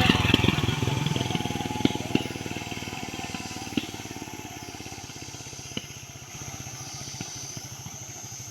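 A motor vehicle's engine running with a fast, even pulse, fading over the first few seconds and then holding low and steady, with a few sharp knocks.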